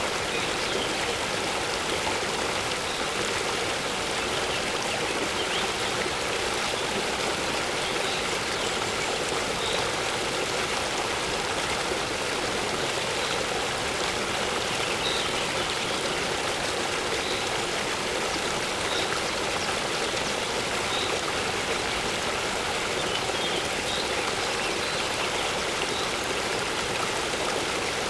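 Waterfall rushing steadily. Short, faint bird chirps come now and then.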